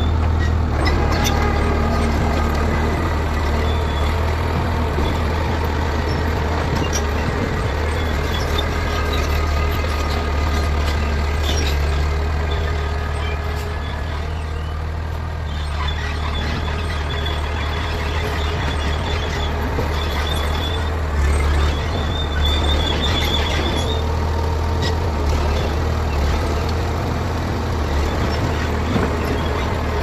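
Heavy diesel engine of a bulldozer running steadily with a deep rumble while pulling out a truck stuck in the ground, with a thin high squeal coming and going several times.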